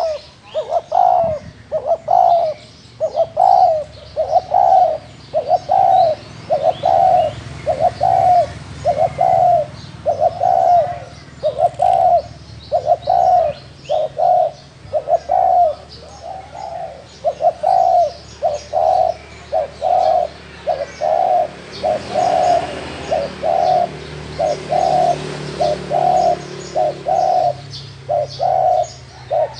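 Spotted dove giving its repeated 'gù' coo: a long, even run of short, low coos, about four every three seconds. Faint high chirps of small birds sound above it.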